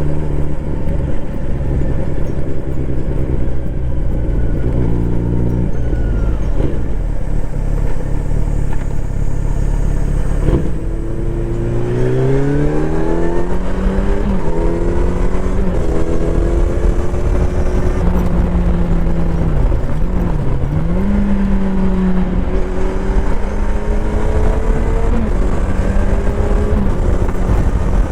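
Kawasaki Z900RS inline-four with a full-system exhaust, ridden on the street. It runs at a steady low note, eases off, then rises in pitch through a few gear changes from about eleven seconds in and settles into a steady cruising note, dipping briefly near twenty seconds.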